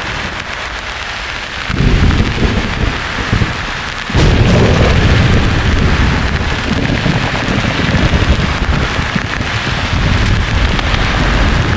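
Steady white-noise hiss with thunder rumbling: a low rumble begins about two seconds in, eases briefly, then a louder rolling rumble comes in about four seconds in and carries on.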